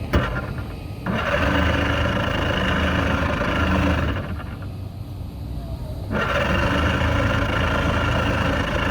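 Boat engine cranked over on its starter in two long attempts of about three seconds each, with a sharp click at the start; it does not catch and run, the sign of an engine that is hard to start.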